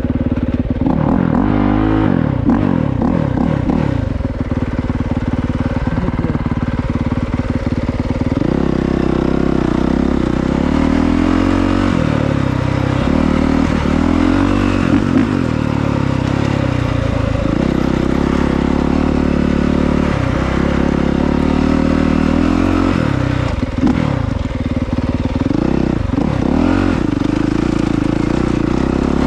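Honda CRF450R's single-cylinder four-stroke engine being ridden off-road. The engine note rises and falls as the throttle is worked, dipping briefly several times where the throttle is rolled off, with stretches of steady high revs between.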